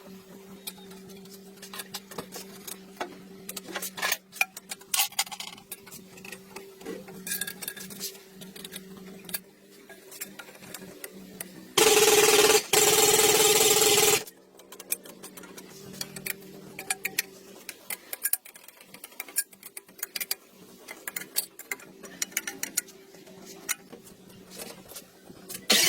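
Small metallic clicks and rubbing of hand work on a motor over a steady low hum. About twelve seconds in, a motor runs loudly for about two seconds, with one brief break, then stops.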